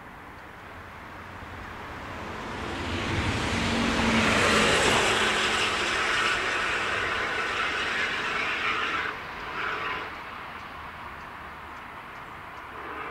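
Electric-locomotive-hauled train passing on the line. It grows louder to a peak about four seconds in, holds, then drops off sharply after about nine seconds as it goes by.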